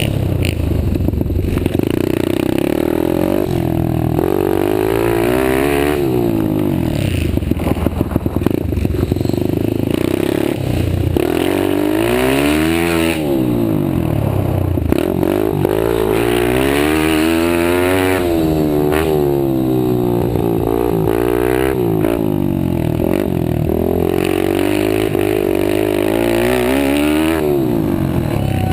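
Several pit bike engines racing together, revving up and down over and over, so that their pitches rise and fall across one another.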